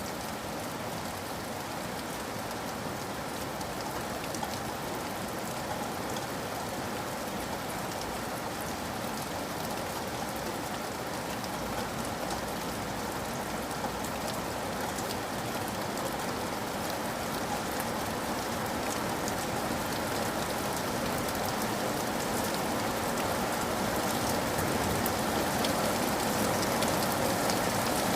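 Steady rain with the patter of many separate drops, growing gradually louder.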